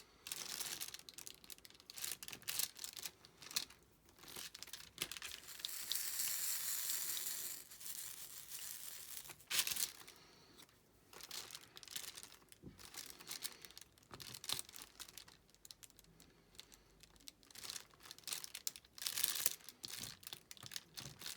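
Plastic crinkling in irregular rustles as the diamond-painting canvas is worked at the edge of its mat, with a longer, steadier crinkle about six seconds in.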